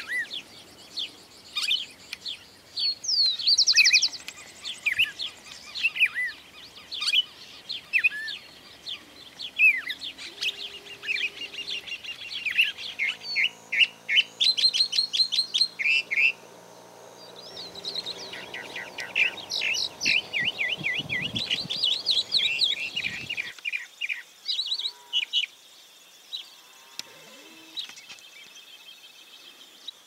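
Small birds chirping and calling in many quick, short notes, a busy chorus. A little over two-thirds of the way through it falls away to a few fainter chirps.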